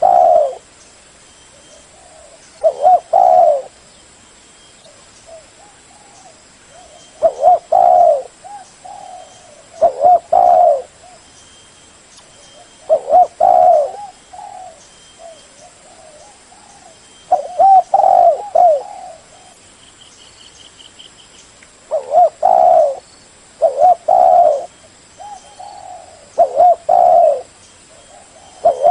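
Spotted dove cooing: short phrases of a few mellow coo notes, repeated every few seconds.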